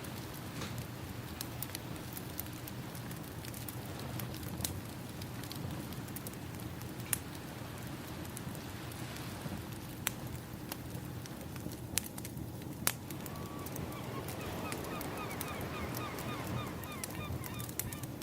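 Ambience of a crackling wood fire, with scattered sharp pops, over a steady wash of ocean waves. About two-thirds of the way in, a string of rapid bird calls joins.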